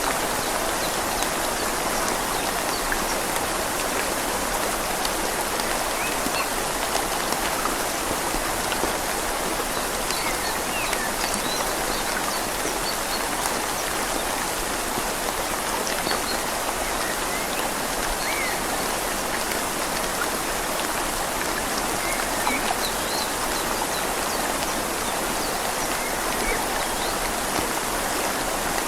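Steady rain falling on leaves, mixed with the even rush of a flowing river.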